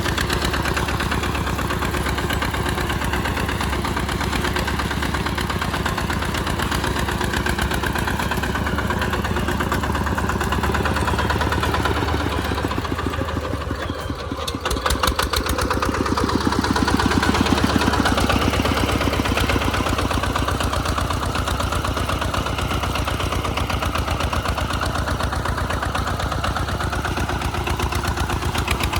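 RT140 Plus single-cylinder diesel engine of a small tractor running steadily while plowing. About halfway through it dips briefly, then runs louder for a few seconds before settling back.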